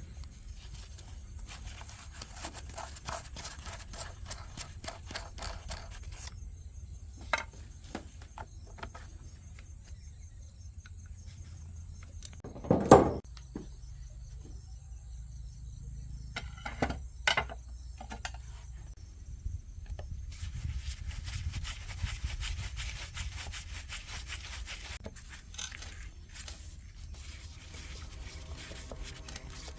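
Hand rubbing and scraping on a part in repeated fast strokes, like sanding or brushing. A single loud knock comes about 13 seconds in, with a few sharper clicks around it.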